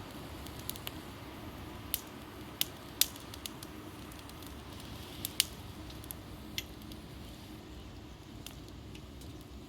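Wood fire in a fire-pit stand crackling, with irregular sharp pops from the burning wood over a steady low hiss; the loudest pops come about three and five and a half seconds in.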